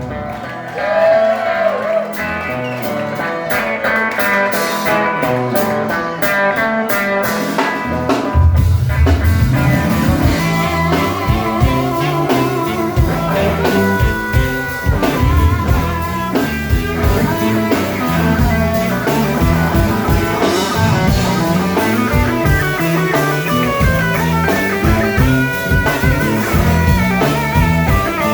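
Blues-rock instrumental with electric guitar leading. The first eight seconds or so have little bass; then bass and drums come in with a steady beat and the full band plays on.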